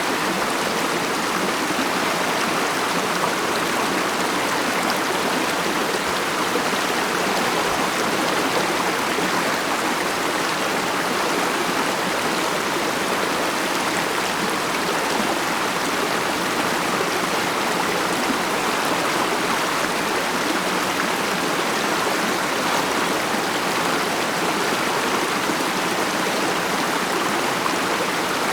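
A stream flowing over rocks: a steady rushing and babbling of water that does not change.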